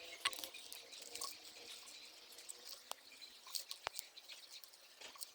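Faint, scattered light ticks and patter of grated laundry soap falling into a small plastic bottle, with one sharper click about four seconds in.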